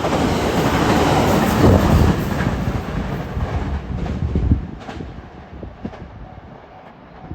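Train passing over a level crossing, its wheels clattering over the rail joints with a heavy rumble that cuts off sharply about four and a half seconds in, leaving a quieter tail with a few fading clicks.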